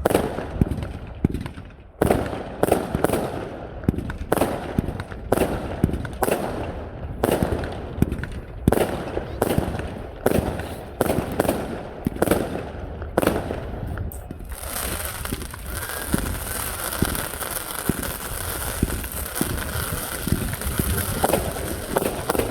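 Fireworks going off in a fast barrage of sharp bangs, two or three a second, for about fourteen seconds. The bangs then give way to a steady crackling hiss with smaller pops.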